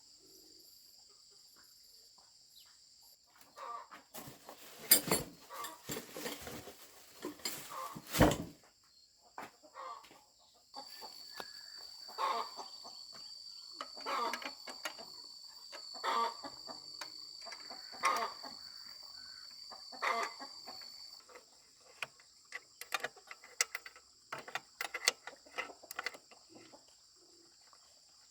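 Sharp knocks and clatter a few seconds in, then a sound repeating about every two seconds, over a steady high chirring of insects.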